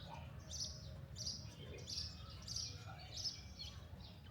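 A bird singing a short chirp over and over, about six times, evenly spaced at roughly two-thirds of a second, over a steady low rumble.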